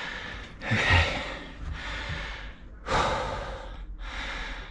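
A man breathing hard, about four long breaths in and out. He is winded from hand-cranking a diesel engine's flywheel.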